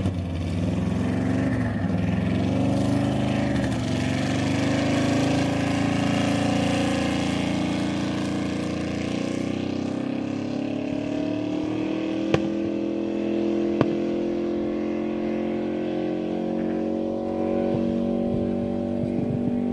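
Land-speed racing engine running hard. Its pitch wavers at first, then climbs slowly and steadily, and two sharp ticks cut through a little past the middle.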